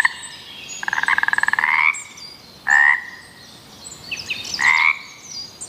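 Animal calls: a rapidly pulsed call lasting about a second, then two short calls, with faint short high chirps in between.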